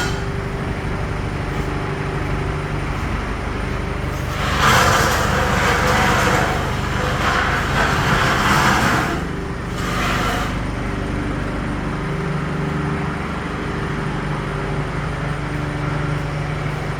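An engine idling steadily. A loud hissing rush lasts about four seconds in the middle, and a shorter burst follows about a second later.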